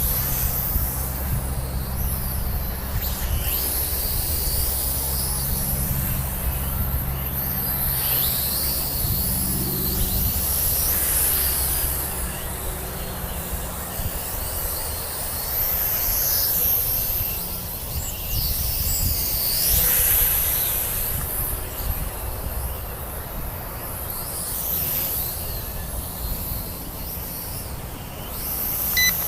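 Wind buffeting the microphone, over the high whine of a JJRC H33 mini quadcopter's motors rising and falling in pitch as it flies.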